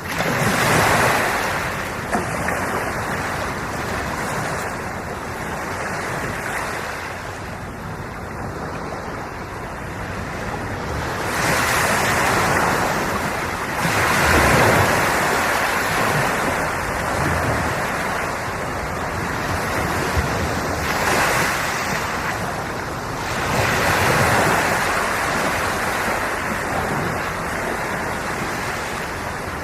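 Sea waves washing in, a steady rush that swells into louder surges every few seconds at uneven intervals.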